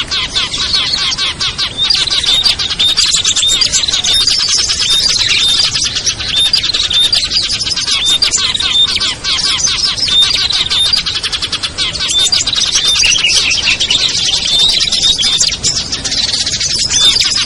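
Many small songbirds chirping and twittering rapidly all at once in a dense, unbroken chorus: a mixed small-bird lure call, meant to draw wild birds down.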